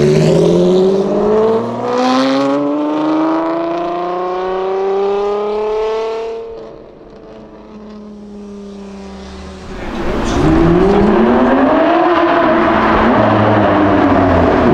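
Supercar engine accelerating hard, its pitch climbing steadily for about six seconds before dropping away quieter. About ten seconds in a loud burst of engine noise returns, the revs rising and then falling.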